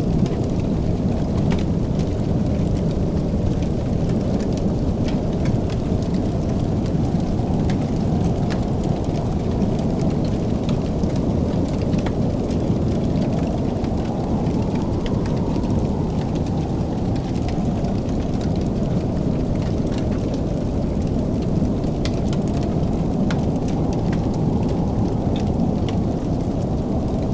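Wood fire crackling, with scattered sharp pops and ticks over a steady low rumble.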